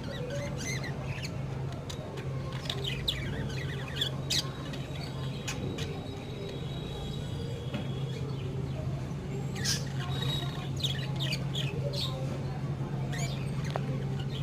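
Budgerigars chirping and squawking in quick, scattered calls, busiest about ten seconds in, over a steady low hum.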